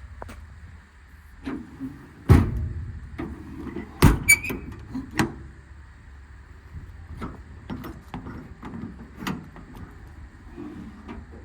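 Metal compartment doors on a truck service body being handled: latches clicking and rattling, with two loud bangs about two and four seconds in as doors are shut, and lighter knocks after.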